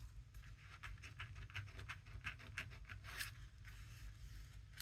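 Paper journal pages and card pockets being handled: light rustling and brushing of paper with many small, irregular clicks.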